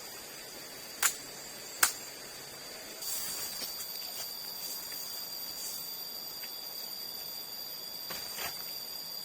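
Insects, crickets or similar, chirring steadily at a high pitch, the chorus growing fuller about three seconds in. Two sharp clicks come about a second in, close together, and fainter ones near the end.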